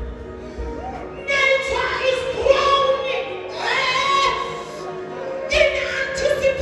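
Music with voices singing, held and gliding notes over a sustained accompaniment.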